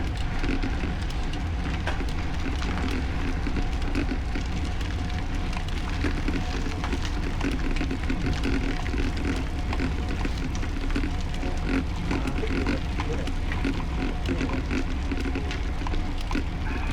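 Steady wind rumble on the microphone with road and tyre noise from a road bike being ridden.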